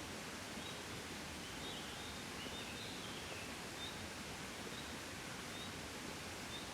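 Soft, steady breeze with a faint rustle. Short high chirps recur about once a second, and a few brief falling bird calls come a couple of seconds in.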